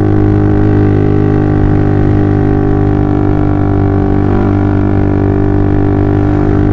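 Honda CB150R single-cylinder engine droning through a DOS Muffler full-system aftermarket exhaust at a steady engine speed. It has a deep, round tone.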